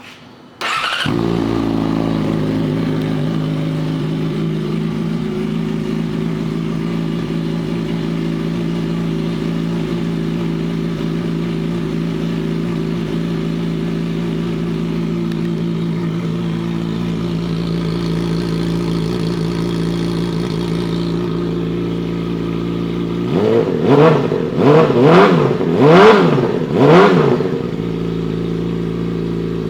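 2012 Yamaha YZF-R6 inline-four sport bike with an aftermarket Yoshimura exhaust starting about a second in and idling steadily. Near the end it is revved about five times in quick blips, then shut off.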